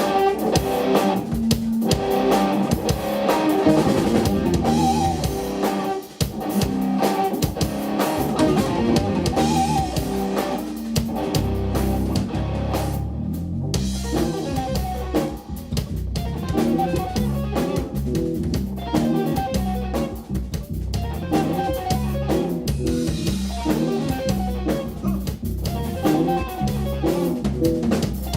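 Live instrumental rock-fusion trio of electric guitar, bass guitar and drum kit playing a dense passage of quickly changing notes, with a brief dip in loudness about six seconds in.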